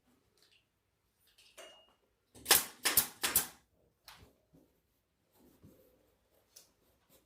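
Staple gun firing three times in quick succession, stapling pool table bed felt down, each shot a sharp clack; a few faint handling clicks follow.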